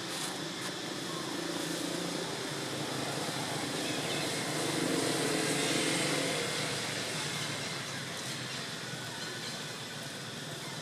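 Steady outdoor background noise, a rushing hiss that swells gently about halfway through and then fades back.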